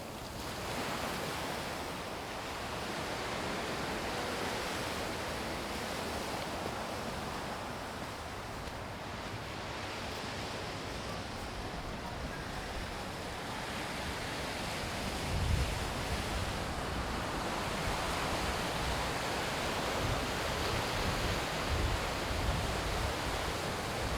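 Sea waves washing onto a beach: a steady rushing surf that swells and ebbs slowly. From about fifteen seconds in, wind buffets the microphone with low gusty thumps.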